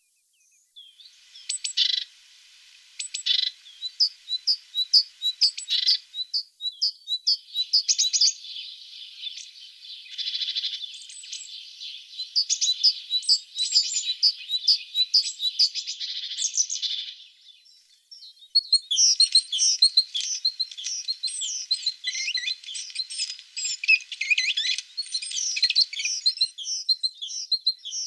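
Tit song: rapid high chirps and trills in phrases, broken by short pauses near the start, about six seconds in and about seventeen seconds in, then a dense run of chirps to the end.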